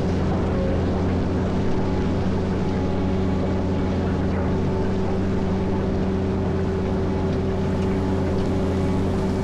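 Caterpillar 140M motor grader's diesel engine running at a steady speed, a constant low drone with no change in revs.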